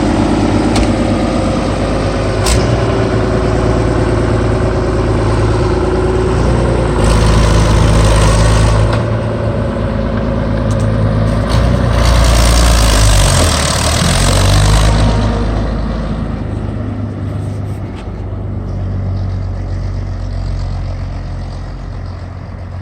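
1986 Fiat tractor's diesel engine running as the tractor pulls away, getting louder twice as it is revved, then fading as it moves off.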